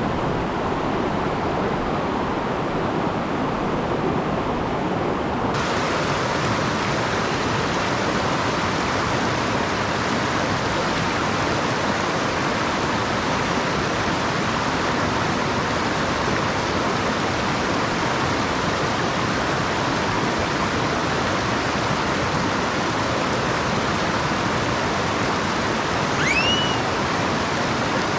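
Steady rush of a mountain stream's flowing water, growing brighter and hissier about five seconds in. Near the end a single short chirp that rises and falls sounds briefly over it.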